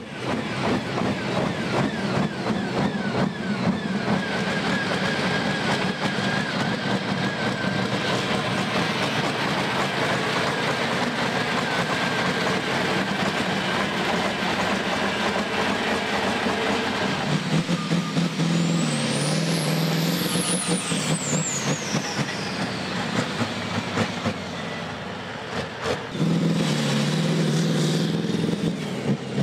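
Tractor-pulling engines running loudly and steadily, with a high whine that rises and then falls partway through; the sound changes abruptly twice.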